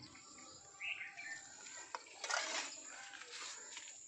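Bird calls, with a short rising-and-falling chirp about a second in, and a brief rustling noise about halfway through.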